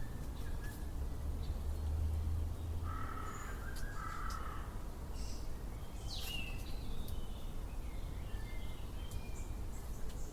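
Outdoor ambience of wild birds calling over a steady low rumble: a harsh two-part call about three seconds in, a quick falling whistle around six seconds, and scattered faint chirps.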